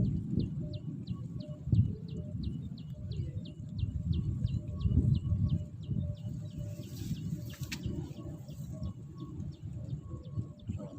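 Strong wind buffeting the microphone, making a continuous low rumble. Over it a bird gives quick, high, falling chirps, about four a second, which stop about two-thirds of the way through. A brief rustle with a click comes near the same point.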